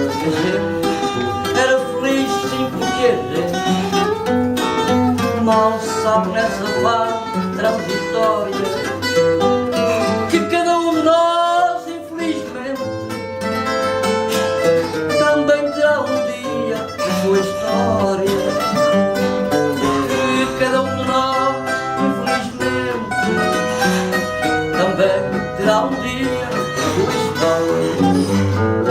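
Fado instrumental passage: the Portuguese guitar plays the melody over the strummed and plucked chords of the fado viola (classical acoustic guitar), with a short dip in loudness near the middle.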